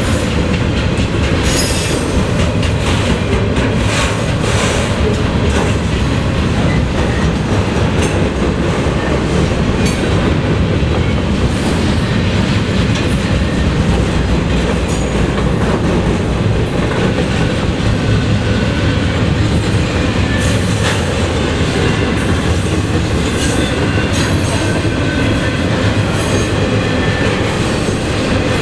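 Freight train cars rolling steadily past at close range, wheels clicking over the rail joints, with short thin wheel squeals now and then in the second half.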